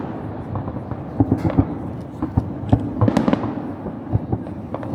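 Fireworks display going off: a rapid, irregular run of bangs and crackles from bursting shells, several a second, over a steady rumble.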